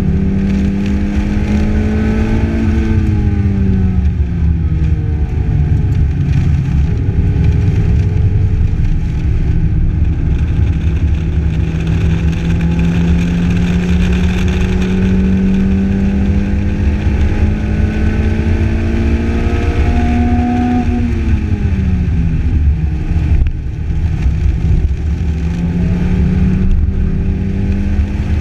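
Lotus Elise engine under load on track, heard from the open cockpit over a heavy rush of wind. The engine note climbs slowly through the gears and drops sharply twice, about three seconds in and again around twenty seconds, as the car slows for corners.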